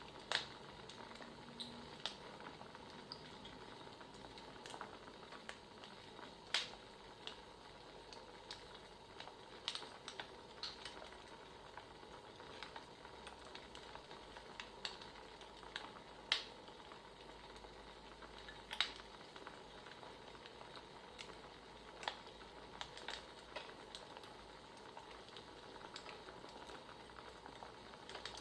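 Wood fire crackling: a steady faint hiss with irregular sharp pops and snaps every second or two.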